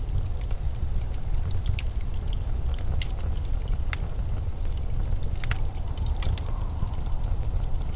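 Blizzard wind rumbling low and steady, with scattered sharp crackles and ticks at uneven intervals.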